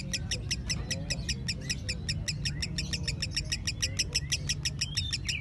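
Mentil songbird singing a long unbroken run of quick, evenly repeated high chirps, about eight notes a second, over a steady low hum.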